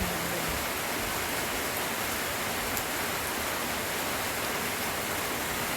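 Steady light rain falling, an even hiss with no separate drops or events standing out.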